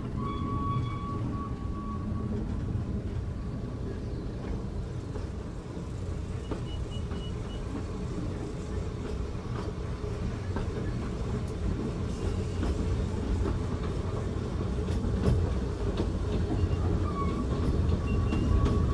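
Ikawa Line train heard from inside the passenger car as it pulls away from a station: a steady low rumble of the running gear, growing gradually louder as the train gathers speed, with scattered clicks from the rails. A thin high squeal sounds briefly at the start and again near the end.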